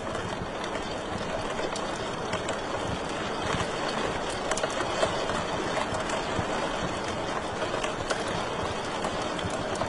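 Wood fire crackling in a fireplace: scattered sharp pops and snaps over a steady hiss of burning, with one louder pop about five seconds in.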